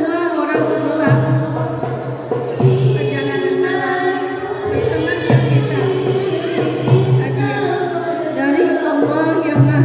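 Group of voices singing sholawat, an Islamic devotional song, together, over low drum beats that come every second or two.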